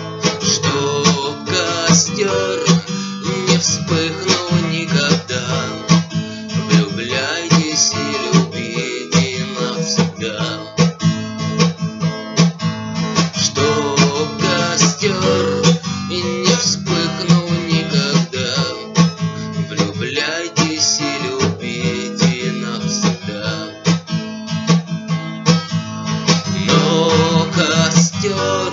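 Acoustic guitar strummed steadily in a Russian bard song, an instrumental passage without singing.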